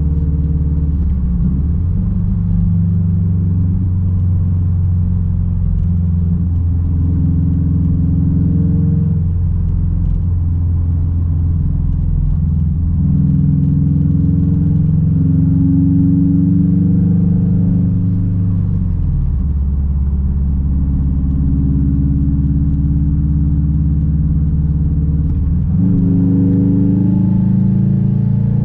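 Straight-piped 2006 Subaru WRX STI's turbocharged flat-four engine running under way with a loud, low exhaust note. Its pitch shifts several times, dipping briefly and then climbing again, as the car changes speed and gear.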